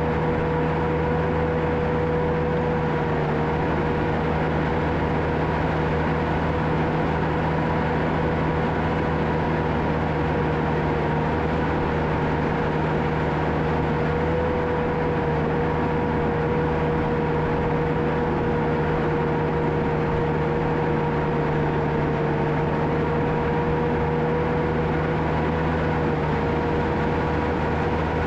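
John Deere 650K crawler dozer's diesel engine running steadily under work, with a steady whine held over the engine note.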